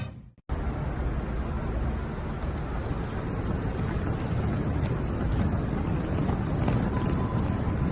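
A steady rushing noise with a heavy low rumble, starting abruptly about half a second in.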